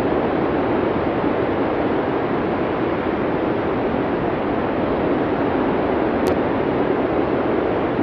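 Blizzard wind: a steady, even rushing noise with no gusts or breaks.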